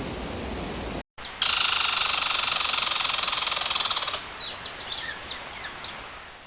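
Steady rush of falling water, cut off suddenly about a second in. Then a bird calls: a long, high buzzing trill for about three seconds, followed by a run of short high chirps that fade out.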